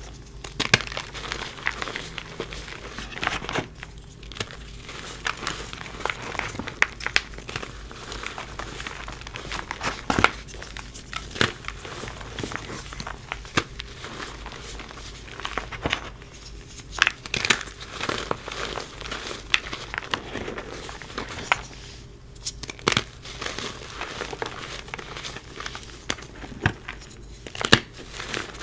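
A block of reformed gym chalk being crumbled and crushed, a dense run of irregular crunches, crackles and snaps with sharper cracks now and then.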